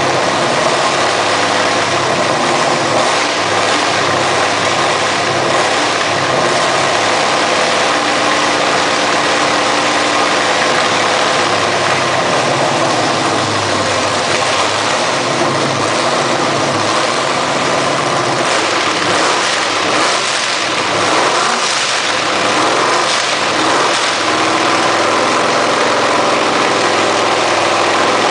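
V8 car engine idling with a steady rumble, with a few short changes in engine speed past the middle.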